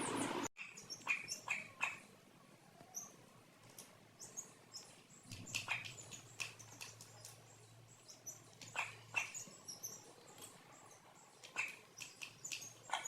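Domestic chicks peeping: many short, high chirps that slide downward, coming in irregular clusters. A louder rushing noise cuts off abruptly about half a second in.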